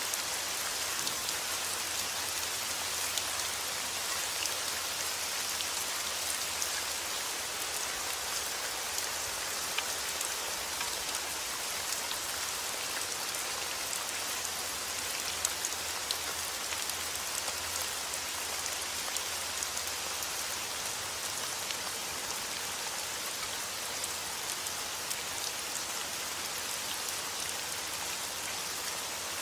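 Heavy rain falling steadily outdoors, an even hiss with scattered individual drop impacts.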